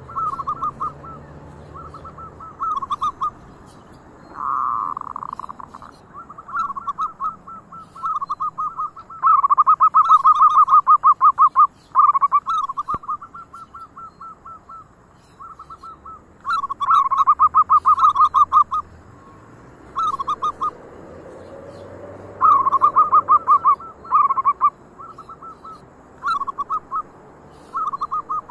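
Zebra doves (perkutut) cooing: phrase after phrase of rapid, staccato coos at a steady pitch. Some phrases are loud and long, others fainter and shorter.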